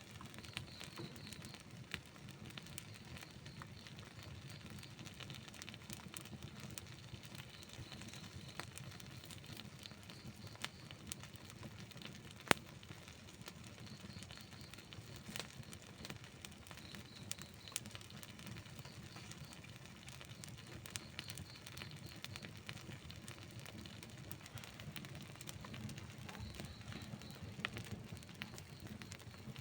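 Wood campfire burning, with a steady low rumble of flames and scattered crackles and pops of the burning wood. One sharp, louder pop comes about twelve seconds in.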